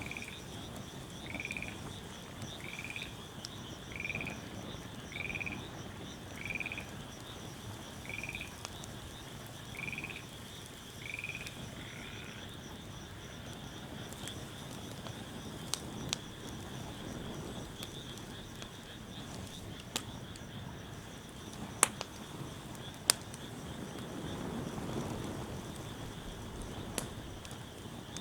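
Wood fire burning, with a few sharp pops and crackles scattered through the second half. A short chirping call repeats about every second and a half through the first twelve seconds, over a steady high-pitched drone.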